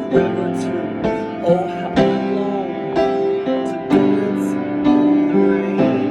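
Piano accompaniment with chords struck about once a second, each ringing on into the next.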